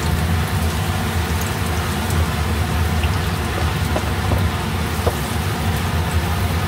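Chopped onion and minced garlic sizzling and crackling steadily in hot oil in a frying pan, with scattered small ticks as the wooden spoon pushes the onion off a plastic cutting board, over a steady low hum.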